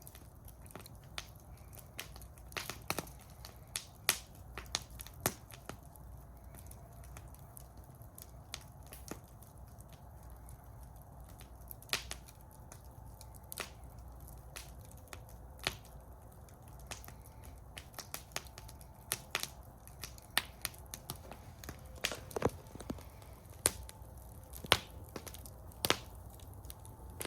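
Wood fire in a fire bowl crackling, with irregular sharp pops and snaps over a low, steady rumble of the flames.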